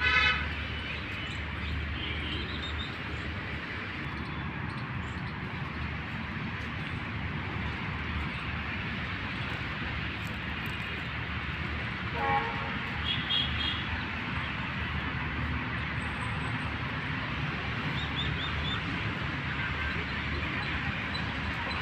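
Birds giving a few short calls, the loudest near the start and a cluster around the middle, over a steady low background rumble.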